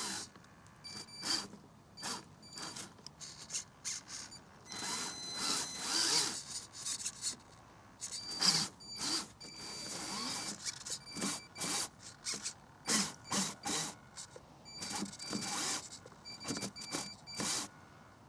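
Electric motor and gear drivetrain of a Vaterra Chevrolet K5 Blazer RC crawler whining in many short stop-and-go bursts as the throttle is blipped on and off.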